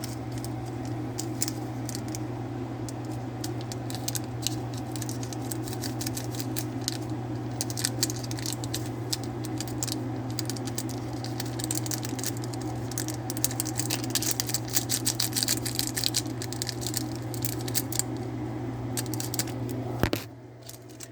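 Irregular crinkling and crackling of a plastic ramen seasoning packet being squeezed and shaken to empty the last of the flavoring powder, over a steady low hum. The crinkling stops near the end.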